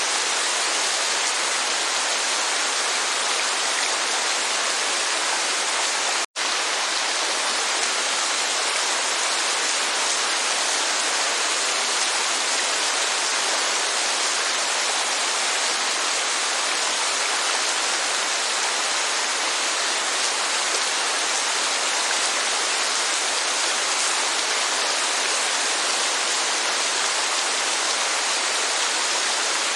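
Steady, even rush of rain and falling water, with a split-second break in the sound about six seconds in.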